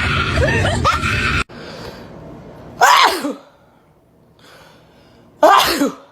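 A dog gives two short, explosive huffing vocalisations about two and a half seconds apart, each dropping sharply in pitch: grumbling protests of a displeased dog. Before them, a louder sound with sliding tones cuts off abruptly about a second and a half in.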